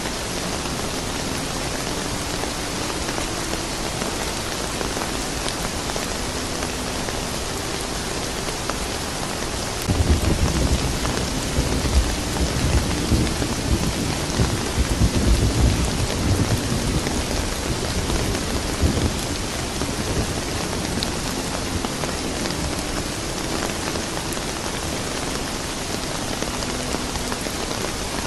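Steady rain, with a rumble of thunder that starts suddenly about ten seconds in and rolls on for around nine seconds before fading back into the rain.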